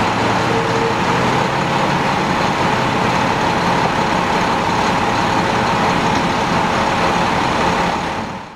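A large vehicle's engine running steadily with a constant mid-pitched hum, fading out near the end.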